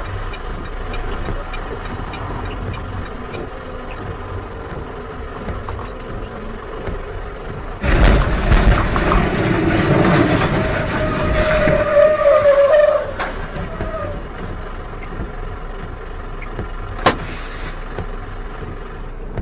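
Car and road noise, steady at first, then a much louder rough stretch about eight seconds in that lasts some five seconds and carries a brief high held tone near its end; a single sharp click follows near the end.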